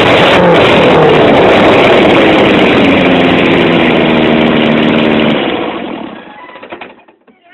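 Engine exhaust running loud, its pitch easing down slowly. About five seconds in it drops away, fading out over the next two seconds.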